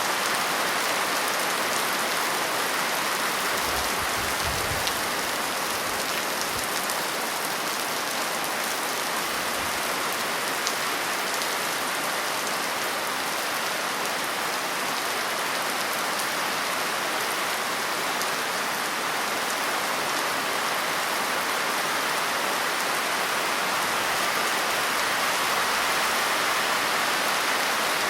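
Steady rain falling, an even hiss of many drops with no let-up. A couple of faint low rumbles come about four to six seconds in.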